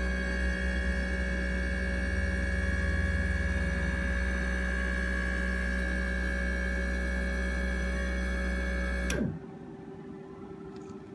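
A machine running with a steady hum made of many even tones, switched off about nine seconds in, its pitch dropping quickly as it winds down.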